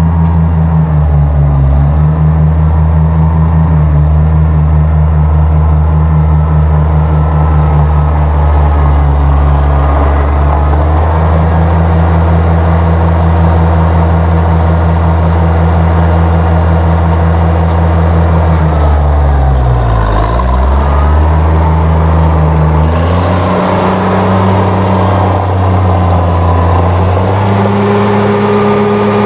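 1966 Oliver 1650's gas Waukesha engine running steadily, its pitch dipping sharply about two-thirds of the way through, then coming back up and stepping higher near the end as the throttle is raised.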